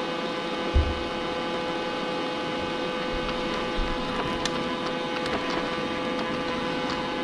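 Robot vacuum cleaner running: a steady motor hum with a whine of several fixed tones, and a single low thump about a second in.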